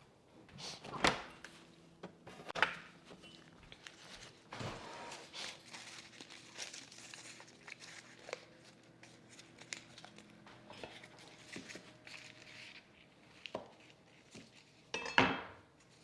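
Kitchen handling sounds: crinkling and rustling of packaging with a few sharp knocks and clatters of dishes or utensils, the loudest about a second in, again a second and a half later, and near the end.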